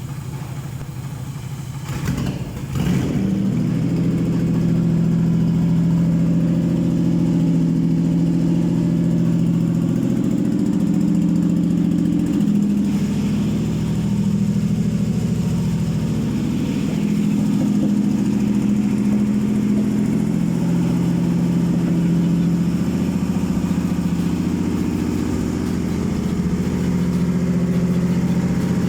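Toyota 3GR 3.0-litre V6 engine on a test stand being started. It catches about two to three seconds in, then idles steadily with small rises and falls in speed.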